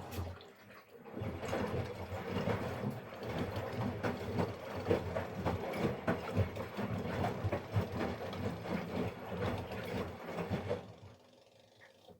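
Miele Professional PW 6065 Vario washing machine drum turning during the rinse with fabric softener, the load of stuffed toys sloshing and knocking through the water in an irregular clatter. The drum stops about eleven seconds in.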